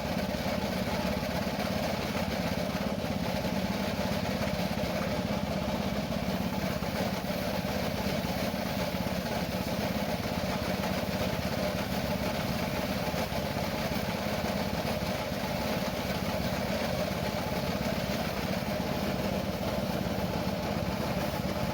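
Engine idling steadily, a constant running drone with no change in speed.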